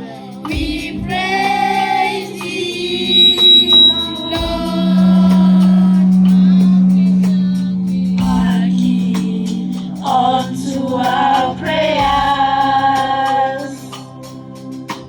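Church choir singing a gospel song, with a long held low note underneath the voices.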